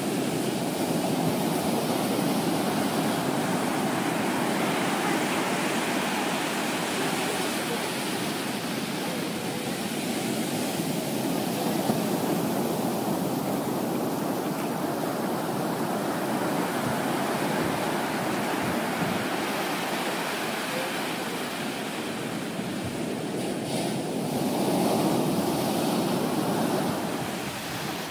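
Typhoon swell breaking on a sandy beach: a steady rush of surf that swells louder near the end as a wave comes in.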